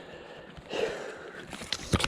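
Footsteps of a person climbing a wooded slope: a rustle about a second in, then a few sharp snaps or knocks near the end.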